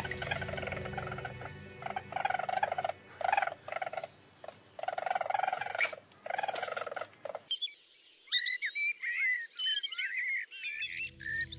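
Animal calls: a string of short, pitched calls, some clipped and some held for about a second, over a steady low hum. Then, after an abrupt change about two-thirds of the way in, a busy chorus of rapid, high, gliding chirps.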